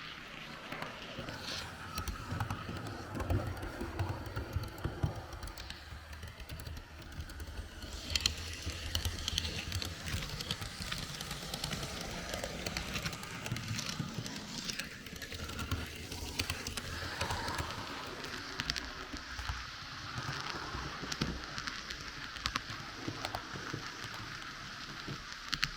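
H0 model train running along the track, picked up close: a steady rolling rattle of small metal wheels with many quick clicks over rail joints and turnouts, and a low motor rumble that is stronger in the first few seconds.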